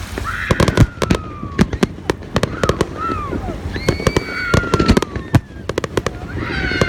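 Fireworks display: a dense run of sharp cracks and bangs in quick succession, with several high falling tones sounding over them.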